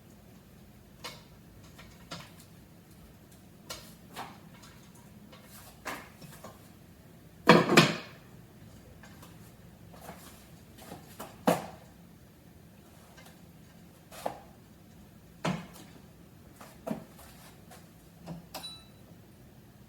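Kitchen handling sounds: scattered short knocks and clatters of things being picked up and set down, with a louder double clunk about halfway through.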